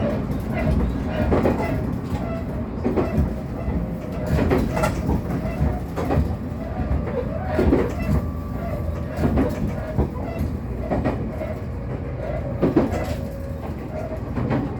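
Diesel train running along the track: a steady low rumble with the clickety-clack of wheels passing over rail joints.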